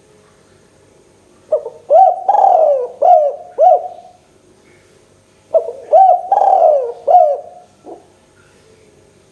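Spotted dove (tekukur) cooing in two phrases, about four seconds apart. Each phrase is a short note followed by three or four rising-and-falling coos.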